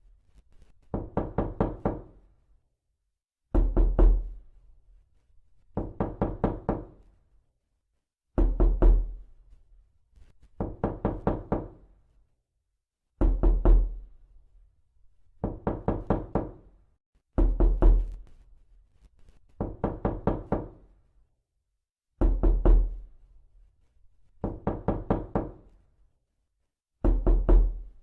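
Knocking on a door: bursts of about four to six quick knocks, repeating every two to three seconds, with a heavier, booming series alternating with a lighter one.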